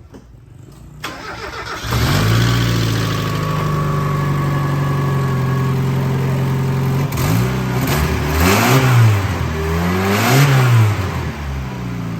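Mazda Miata 1.6-litre four-cylinder engine running, louder from about 2 seconds in, steady at first, then revved up and back down twice before dropping back to idle. It is running now that a known-good cam angle sensor has replaced the faulty one that kept it from running.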